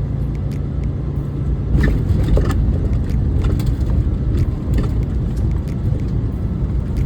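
Steady low engine and road rumble heard inside the cab of a 2022 International truck while driving, with a few light clicks about two seconds in.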